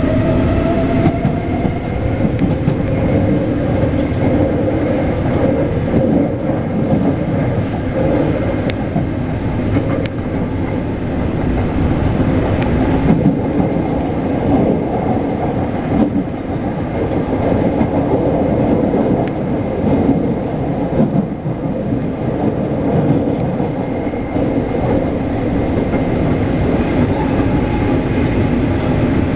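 Taipei Metro C381 train running along the track: steady rumble of wheels on rail with clickety-clack, and a motor whine that rises about a second in before the train settles into an even run.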